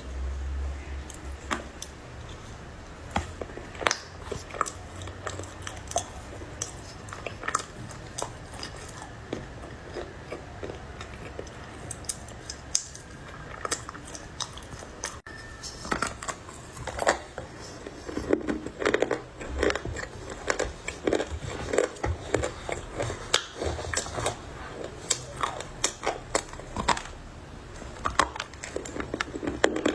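Close-miked crunching and chewing of dry edible clay, with irregular sharp cracks and crackles that grow denser and louder about halfway through.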